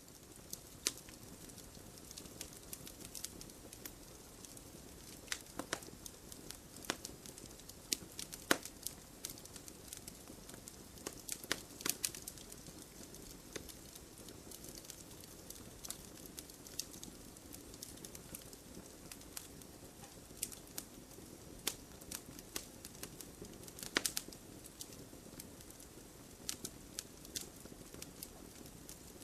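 Wood fire crackling: irregular sharp pops and snaps over a low steady hiss, with louder pops about 8 s, 12 s and 24 s in.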